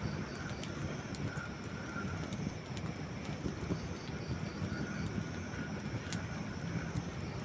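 Campfire of dry wood burning: a steady low rumble of flame with scattered small crackles, and one sharper pop about six seconds in.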